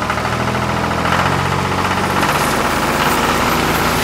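Vehicle engine sound effect running steadily with a fast, even chug.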